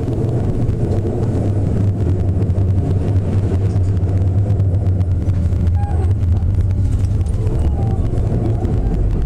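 Odakyu 60000 series MSE electric train running, heard from inside the passenger car: a steady low rumble of wheels on rail and running gear, with a couple of faint falling whines near the end.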